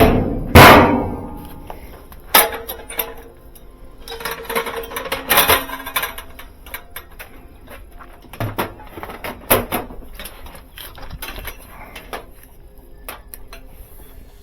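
Metal clanking and knocking from tools and washer parts: a loud ringing metal strike about half a second in, then scattered clinks and knocks.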